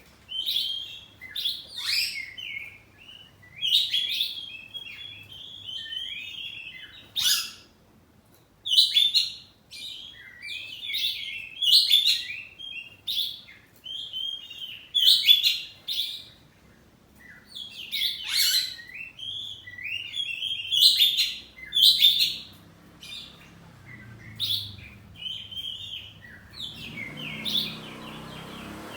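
Oriental magpie-robin (kacer poci) singing in full, a long series of varied, clear whistled and chattering phrases with short pauses between them.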